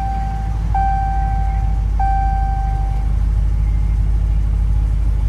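Dodge Challenger R/T's 5.7-litre Hemi V8 idling just after a push-button start, with a steady low rumble. Over it a dashboard warning chime pings three times, about a second and a quarter apart, then fades.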